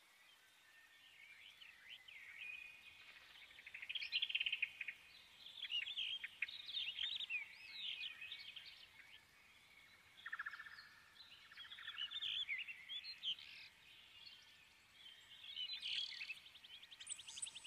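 Birds chirping and calling in quick, varied phrases, with fast rattling trills about ten seconds in and again near the end.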